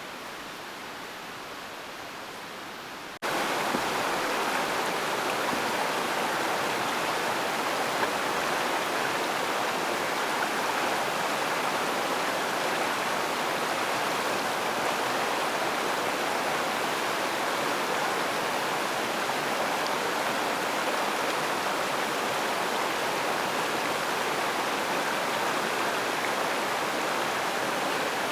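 River water flowing steadily, a continuous rushing wash that abruptly becomes louder about three seconds in and then holds steady.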